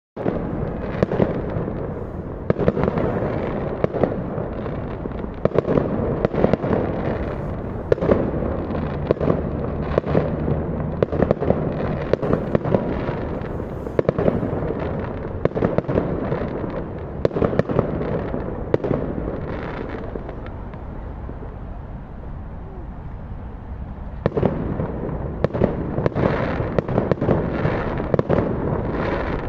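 Fireworks going off in a dense barrage: rapid sharp bangs and crackles over a continuous rumble. It thins out for a few seconds about two-thirds of the way through, then picks up again near the end.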